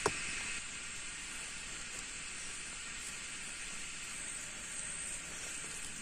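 Steady, even outdoor hiss, with one sharp click at the very start.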